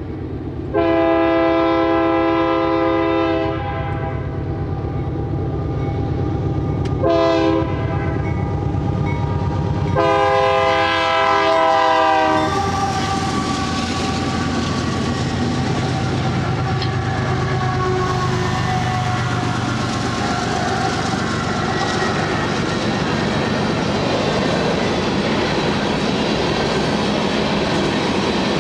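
Diesel freight locomotive's air horn sounds a long blast, a short one and another long one as a grade-crossing warning. Then the locomotives rumble past and coal hoppers roll by with steady wheel clatter on the rails.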